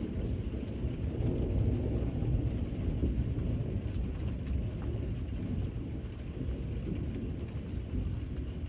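Steady rain with a low rolling rumble of thunder that swells about a second in and slowly fades.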